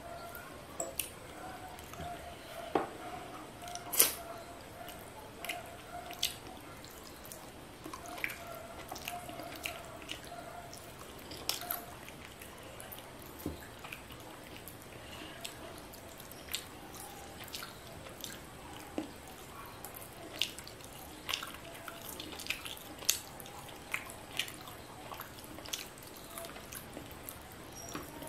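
Close-miked wet eating sounds of fried fish eaten by hand: chewing, lip smacks and sharp wet mouth clicks, with soft squishes of fingers working the curry-soaked fish, at roughly one or two clicks a second.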